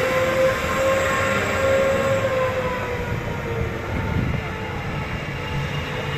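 BelAZ mining dump truck running with an airplane-like hum: a steady high tone over a broad rumble, its pitch easing slightly lower after about two and a half seconds.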